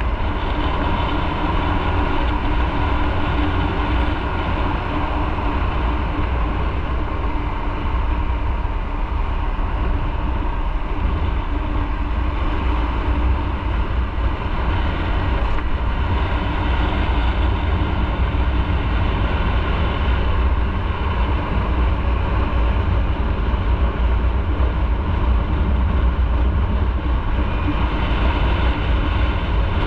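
Motorcycle running steadily while riding, with a heavy low rumble of wind noise.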